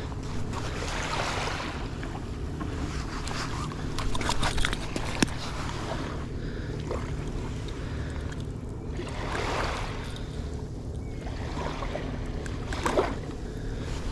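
Wind buffeting the microphone over open water, with water splashing and lapping in several short surges.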